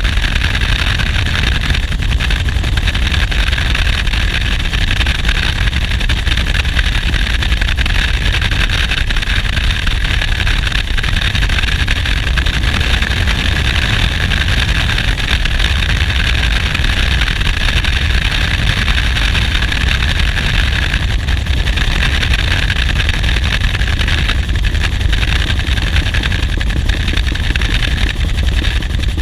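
Bell UH-1 Huey helicopter in flight, heard from on board: a steady, loud din of rotor and turbine engine, with a deep rumble under a hissing whine.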